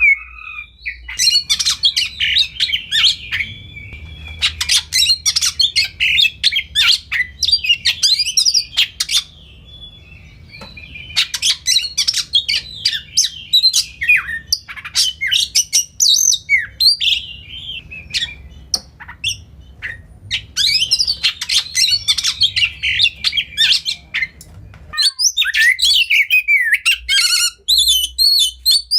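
Oriental magpie-robin (kacer) singing a long, varied song of rapid whistled notes mixed with harsh chattering calls, in phrases separated by brief pauses.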